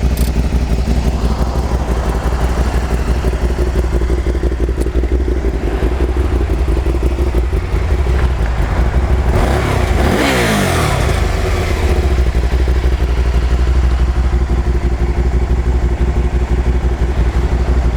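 2010 Can-Am Spyder RS's 990cc liquid-cooled Rotax V-twin idling steadily, with one blip of the throttle about halfway through, its pitch rising and dropping back to idle.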